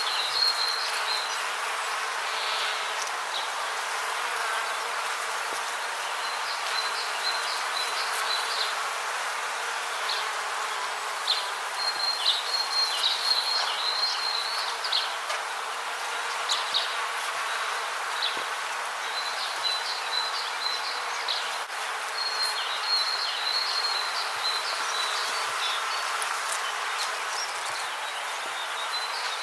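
Rainforest ambience: a steady hiss, with a high, stuttering chirping call that recurs in short bursts every few seconds.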